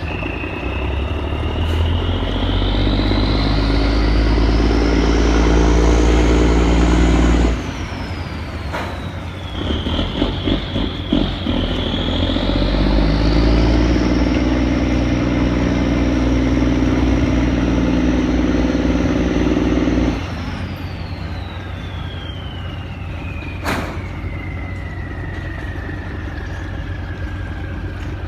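Boat's Cummins diesel engine revved up hard twice, each time held and then cut back suddenly, about seven seconds in and again about twenty seconds in. A high whine climbs with the revs and glides slowly down after each cut as the engine drops back to a lower speed.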